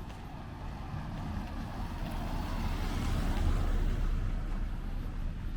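A vehicle driving past, growing louder to a peak past the middle and then fading away.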